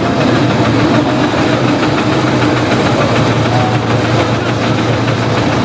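Vintage Marshall tractor engine running steadily, with a rapid, even beat over a low hum.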